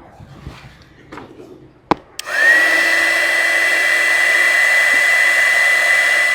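Electric heat gun clicked on about two seconds in: its fan motor spins up to a steady high whine over a loud rush of hot air, running to heat a solder-seal splice until the solder melts.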